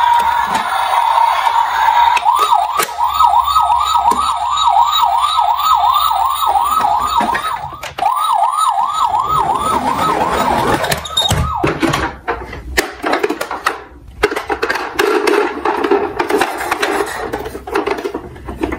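Emergency-vehicle siren, first a steady tone and then a fast rising yelp repeating about three times a second, which breaks off about eleven seconds in. After that come sharp clicks and rattling clatter.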